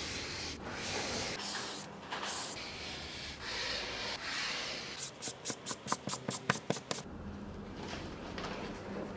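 Rubbing and spraying noises from a car being washed by hand. About halfway through comes a rapid run of scrubbing strokes, about five a second, before it settles back to a soft hiss.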